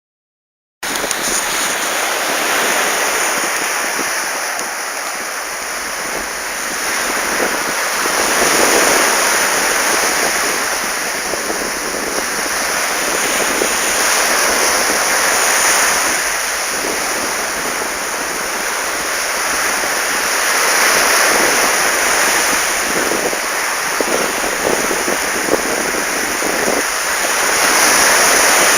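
Sea waves breaking on a beach: a steady rush of surf that swells and eases every few seconds.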